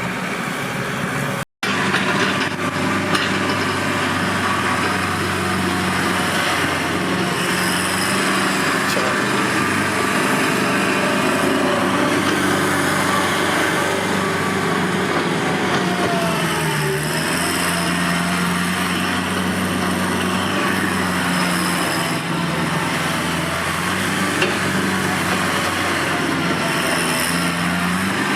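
Tractor engine running steadily under work; its pitch sags briefly about halfway through and then picks back up.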